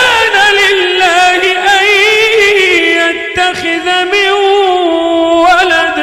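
A male Quran reciter's voice chanting one long, melodic phrase in tajweed style, its pitch winding and ornamented as it is drawn out, then fading with an echoing tail near the end.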